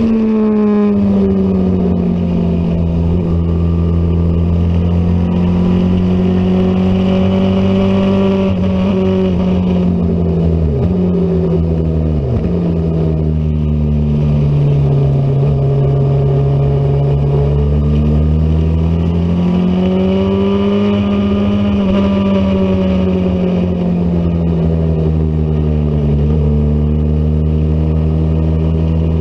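Middleweight road-racing motorcycle engine running hard, its pitch sweeping down and back up as it slows and accelerates, with a few quick sharp drops in pitch about halfway through.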